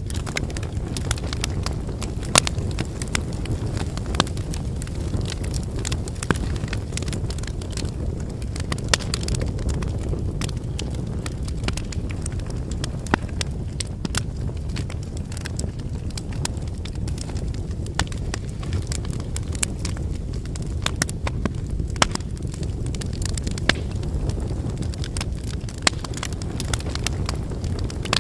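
Wood campfire burning: a steady low rumble of flames with frequent sharp, irregular crackles and pops from the burning firewood.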